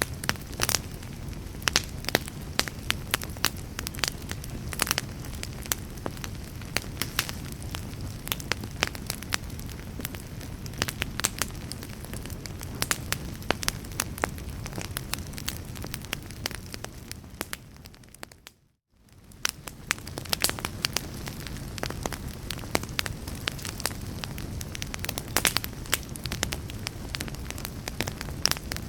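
Wood fire in a fireplace crackling, with frequent sharp pops over a steady low rumble. About two-thirds of the way through it fades out to near silence for a moment, then fades back in.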